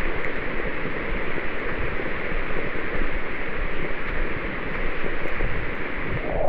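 Heavy rain pouring steadily, a dense, even hiss with no break.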